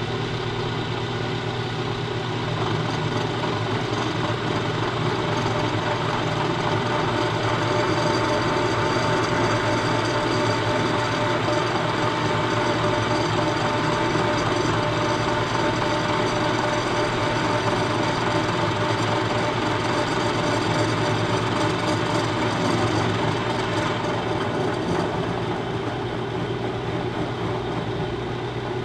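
Milling machine running with an end mill cutting across the front face of an engine frame casting: a steady machine sound with a thin, steady whine. The whine fades out a few seconds before the end, as the cut finishes or eases off.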